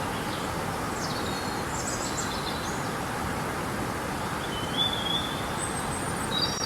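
River water rushing steadily, with short high bird chirps and whistles over it: a cluster between one and two and a half seconds in, and a few more toward the end.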